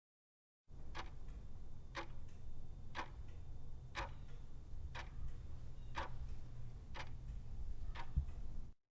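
Clock ticking, one tick a second, eight ticks over a low rumble; it starts and cuts off abruptly.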